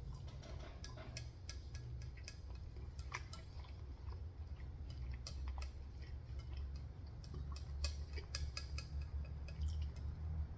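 Close-miked eating of Korean fried chicken: irregular crisp clicks and crackles of chewing through the fried coating, over a low steady hum.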